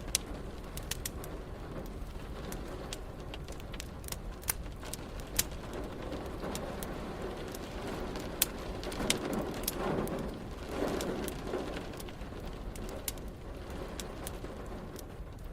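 Wood fire crackling in a fireplace, with irregular sharp pops and snaps, the loudest a little past halfway, over a steady hiss of rain. A low rumble swells and fades about two-thirds of the way in.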